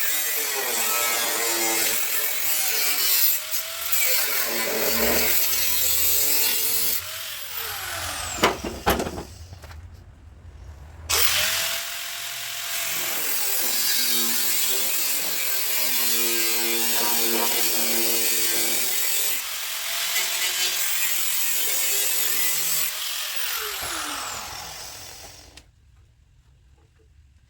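Handheld electric power tool running on car bodywork, its motor pitch sagging and recovering again and again as it is pressed on and eased off. It drops out briefly near the middle and stops near the end.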